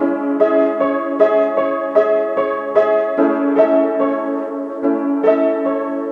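Piano playing a steady, even pattern of repeated struck notes over held middle-register chords.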